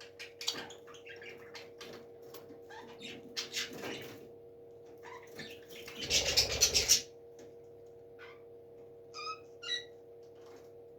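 A parrot scratching and shuffling about, with a loud rustling burst about six seconds in and two short chirps near the end. A steady hum runs underneath.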